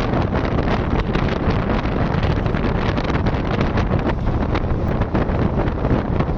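Wind buffeting the microphone of a moving vehicle, a steady loud rumble of wind and road noise with frequent small crackles.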